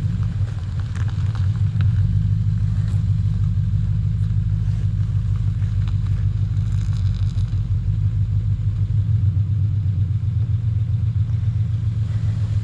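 A vehicle engine idling steadily close by, a low even hum with no revving.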